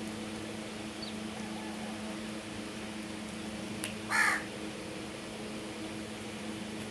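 A crow giving a single short caw about four seconds in, over a steady low hum.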